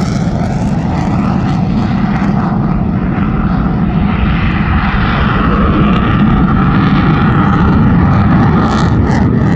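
Eurofighter Typhoon's twin EJ200 turbofan engines: a loud, steady jet roar with a deep rumble, growing slightly louder through the middle.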